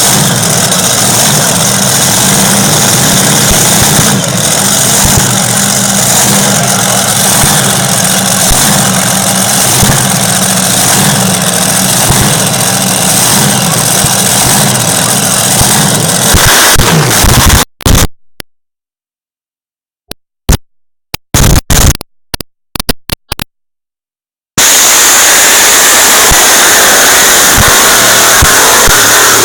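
Pulling tractor's engine running hard under load, very loud and overloading the recording. About 18 seconds in the sound breaks up into dropouts for several seconds, then returns at full, flattened level.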